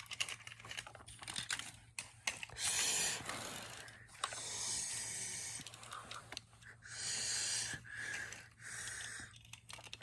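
Breathy hissing bursts, four of them about a second long, amid scattered clicks and taps over a faint steady low hum.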